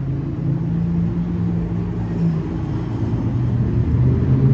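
A motor vehicle's engine running with a steady low hum, its pitch dropping a little about two seconds in and rising again near the end.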